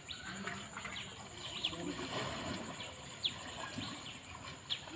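Small birds chirping outdoors: a scatter of short, quick, falling chirps, heard over a steady high-pitched whine and a faint low background murmur.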